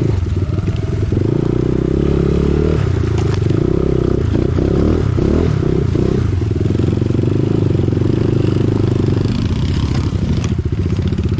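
Dirt bike engine running under load, the revs rising and falling with the throttle, with a run of quick throttle blips about halfway through and lower revs near the end.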